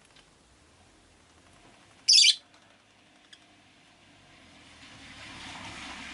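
Peach-faced lovebird giving one loud, short, high call about two seconds in. Near the end, the noise of a passing vehicle swells up from the street.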